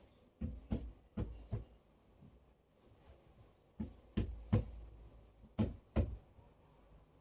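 A series of light knocks and thumps in groups of two or three, about half a second apart, from things being handled and set down.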